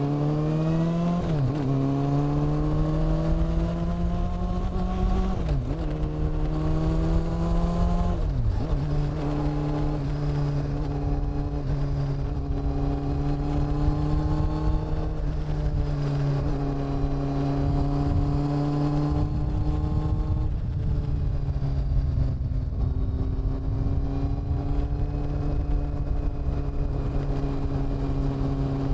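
Honda CB400 Super Four's inline-four engine and exhaust, pulling up through the gears with three upshifts in the first nine seconds, each a rising note that drops sharply. It then cruises at a steady engine speed, the pitch easing off and picking up gently, with a brief dip about twenty seconds in.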